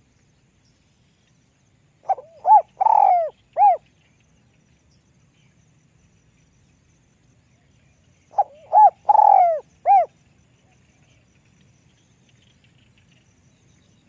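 Spotted dove cooing: two phrases of about four notes each, some six seconds apart.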